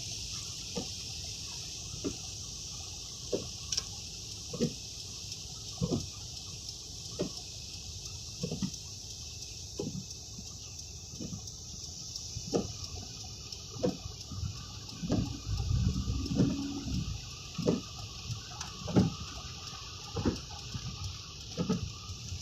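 Heavy rain falling steadily as a constant hiss, with a sharp knock repeating about every second and a quarter. About two thirds of the way in, a low rumble swells for a couple of seconds and fades.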